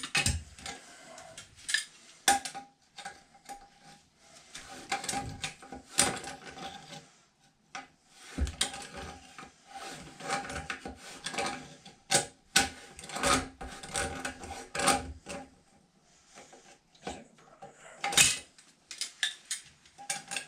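Hand tools working on an old threaded metal fitting in a toilet tank: irregular scraping and rasping with sharp clicks and clanks as the fitting is turned and worked loose.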